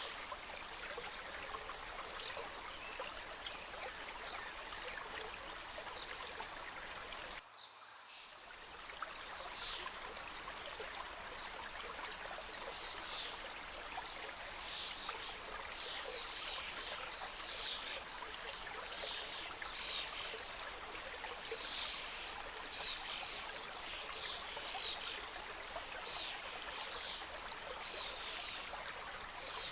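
Mountain stream cascading through a forest, a steady rush of water, with small birds calling in many short high chirps from about nine seconds in. The sound dips briefly about seven and a half seconds in.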